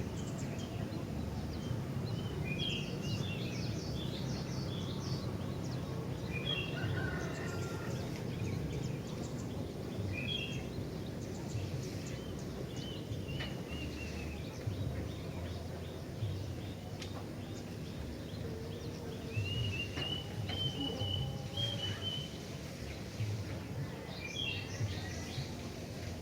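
Gentilang, a kutilang (sooty-headed bulbul), singing in short repeated chirping phrases with one longer whistled phrase past the middle, over a steady low background rumble.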